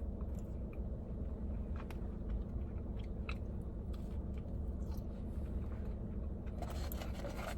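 A person chewing and biting fried fast food close to the microphone, with scattered short crunches and clicks over a steady low hum.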